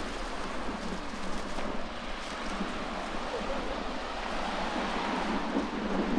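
Sea surf and gusting wind: a steady rushing wash of waves on the shore, swelling near the end.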